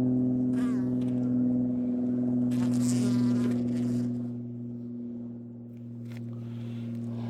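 A steady low hum runs throughout, with a bird calling briefly about half a second in and again about three seconds in.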